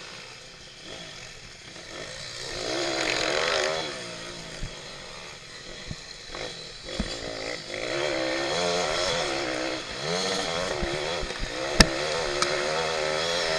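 Pit bike engine revving up and down again and again, the pitch rising and falling with throttle and gear changes. A sharp knock near the end.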